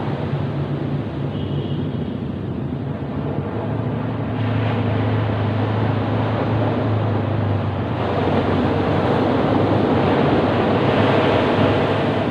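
Ocean surf: waves rushing onto a beach in a steady roar of water noise, swelling louder about two-thirds of the way through as a wave comes in.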